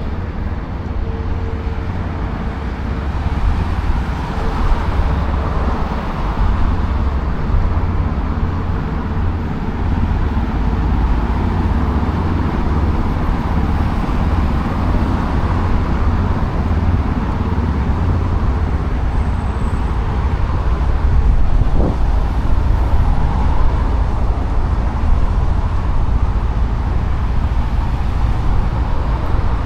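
Steady road traffic noise: a continuous hum of passing cars with a heavy low rumble.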